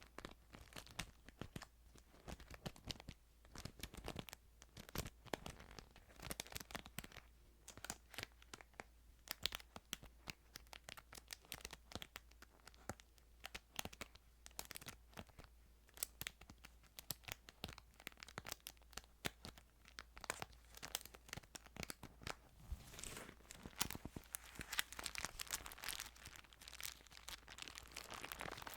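Bible paper pages crinkling and rustling as they are handled, with many small irregular crackles and a longer, smoother rustle near the end.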